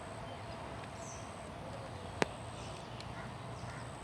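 Steady outdoor background noise with faint bird calls, and a single sharp click a little past the middle.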